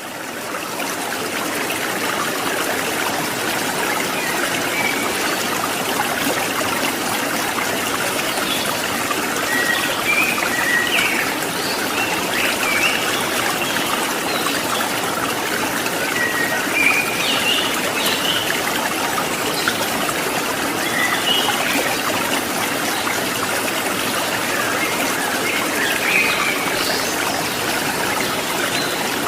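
Steady rushing of flowing water from a mountain stream or waterfall, with short bird chirps now and then.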